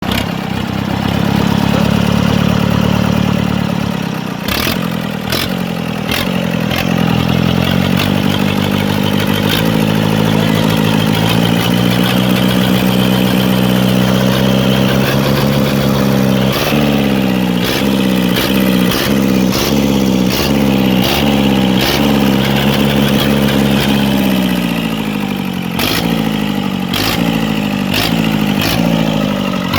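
An engine being revved: it holds high revs at first, then runs up and down, and later gives a series of quick throttle blips about one a second. Sharp cracks come a few seconds in and again near the end.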